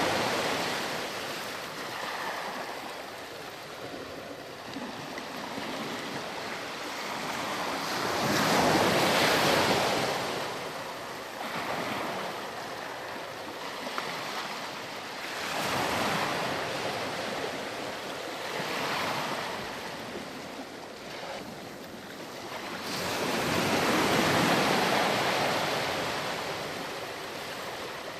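Ocean surf: waves breaking and washing up the shore, each one swelling to a loud rush and fading again, the biggest arriving about every seven or eight seconds with smaller ones between.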